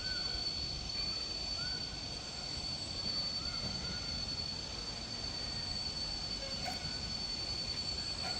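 Outdoor nature ambience: a steady high-pitched insect drone over a low rumble of wind, with a few faint short bird chirps.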